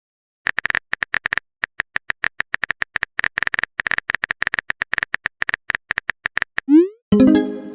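Typing sound effect: rapid, irregular clicks for about six seconds. Near the end comes a short rising tone and a bright chime, a message notification sound.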